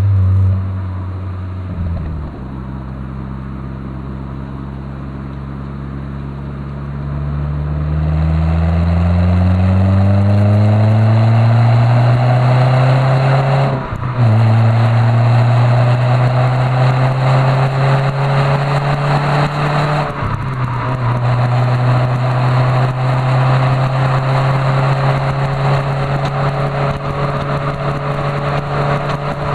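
Renault Clio III 1.6 16V four-cylinder engine breathing through a Supersprint centre pipe and rear exhaust, heard from on board while accelerating. The engine note holds steady at first, then climbs in pitch, drops sharply at a gear change about halfway through, and climbs again. A second upshift comes about two-thirds of the way through, followed by a slow pull.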